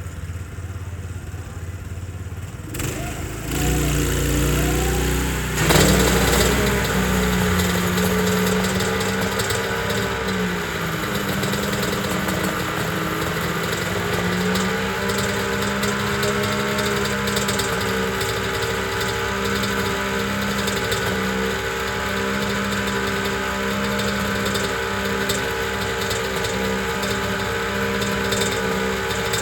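1983 Honda NS500 two-stroke three-cylinder Grand Prix race engine being started: a low rumble for the first few seconds, the engine catching with a sudden rise about six seconds in, then running steadily at a high idle, its speed sagging briefly and picking up again before settling.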